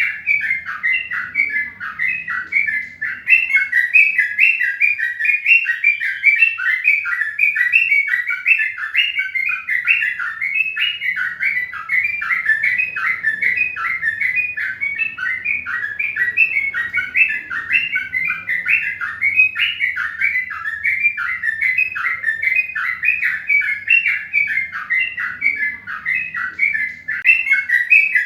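Birds chirping without a break: many short chirps, each falling in pitch, following close on one another.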